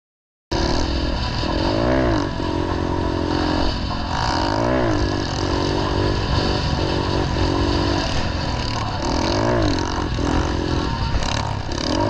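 Small pit-bike engine running hard under throttle, its pitch swooping up and down several times as it revs. It cuts in suddenly about half a second in.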